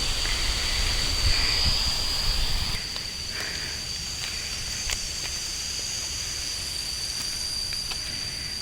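A steady, high-pitched insect drone over forest ambience, with rushing water and low wind rumble that fall away about three seconds in.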